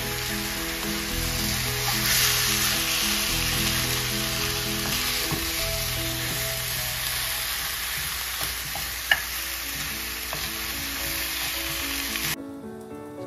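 Chicken pieces sizzling in hot oil on a high flame in a nonstick karahi, stirred and turned with a spatula, with one sharp tap about nine seconds in. The sizzling cuts off abruptly just before the end, leaving background music.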